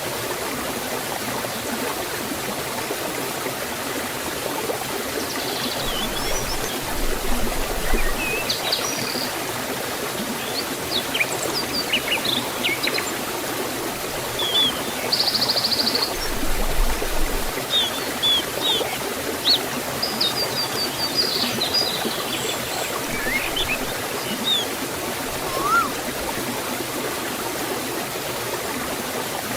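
Forest stream and small waterfall rushing steadily, with birds chirping and calling on and off over it, including a short buzzy trill about halfway through.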